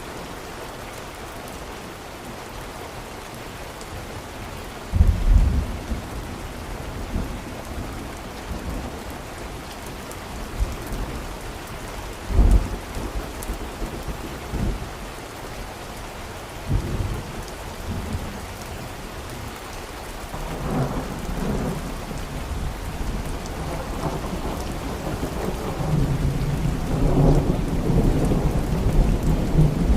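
Steady rain with thunder: a few short low rumbles in the first half, then a longer rolling thunder that swells toward the end.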